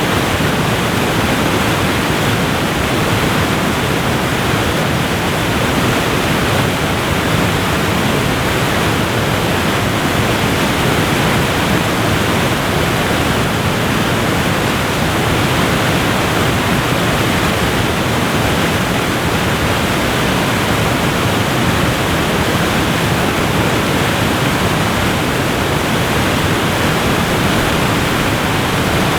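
Waterfall rushing steadily: a loud, even, unbroken wash of falling water.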